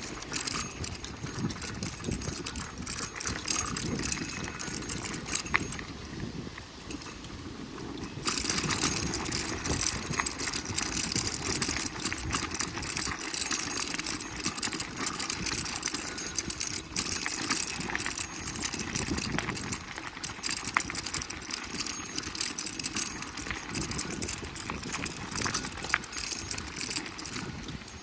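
Bicycle being ridden: tyre noise on the road with the bike's parts rattling and clicking. It grows louder about eight seconds in.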